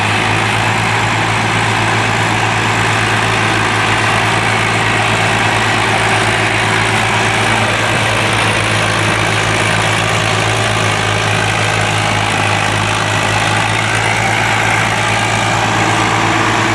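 Tractor diesel engine running steadily with an even low pulsing throb.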